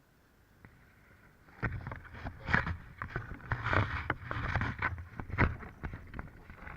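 Wind gusting against the microphone, with buffeting rumble and crackling clicks in irregular gusts, starting about a second and a half in and easing near the end.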